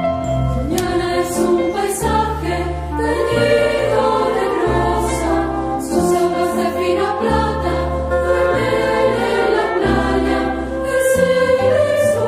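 Music: a choir singing held, chord-like notes over instrumental accompaniment, with low bass notes that change every second or two.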